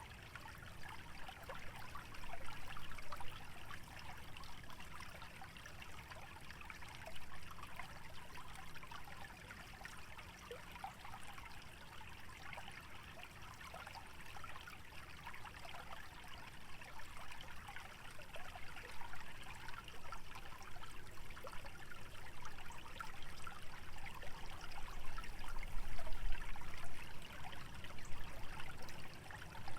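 Small stream trickling and babbling steadily through a wetland, a fine patter of many small water sounds. A low rumble swells briefly near the end.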